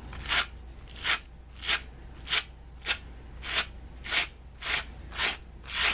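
Cat brush with curved wire teeth stroked repeatedly across fleece fabric, about ten short raspy strokes at a steady pace of one every half second or so, lifting off pilling.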